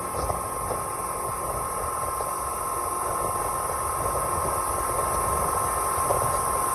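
Speedboat engine running steadily under way, with a constant rush of wind and water noise.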